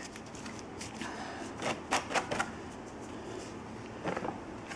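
Light crackly ticks and rustles of soil being sprinkled by hand over freshly sown seeds: a cluster about two seconds in and a short one near the end.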